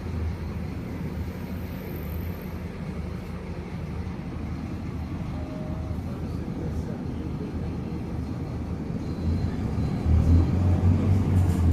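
Scania K310UA articulated city bus's diesel engine running as the bus drives, a low steady drone that grows louder about ten seconds in as the engine pulls harder.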